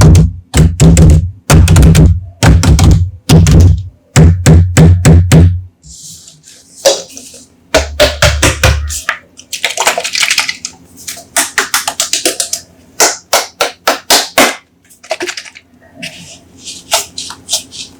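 Music with a heavy bass beat for about the first six seconds, then a run of sharp taps and clicks with short bursts of hiss as Coca-Cola soda bottles are handled and opened and fizz.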